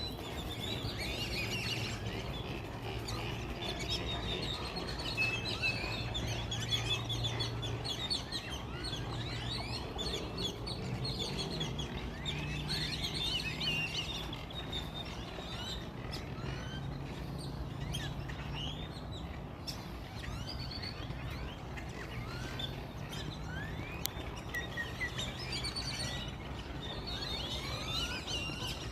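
Many small birds chirping and twittering in a continuous overlapping chorus of quick, high chirps, over a steady low hum.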